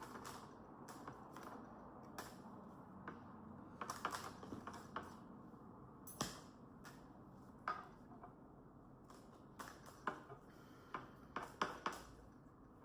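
Faint, irregular clicks and light taps of tarot cards being handled and laid down.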